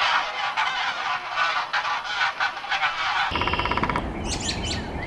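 A flock of poultry calling in a dense, overlapping chorus. About three seconds in the sound cuts to a brief buzzy call, followed by a run of short, high, falling chirps.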